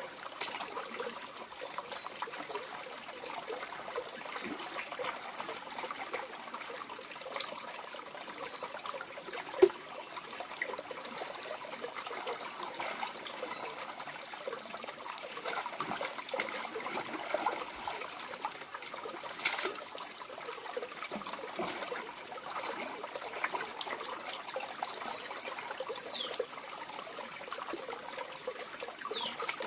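Water trickling steadily, with two sharp clicks, about ten and twenty seconds in.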